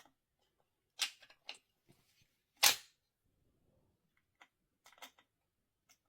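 Sharp clicks and knocks of hand tools on metal, working at a stuck screw: two louder knocks, the loudest about two and a half seconds in, and a few light clicks after.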